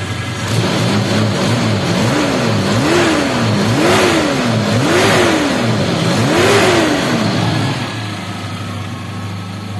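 Car petrol engine blipped about seven times in quick succession, each rev climbing a little higher than the last, then dropping back to a steady idle near the end.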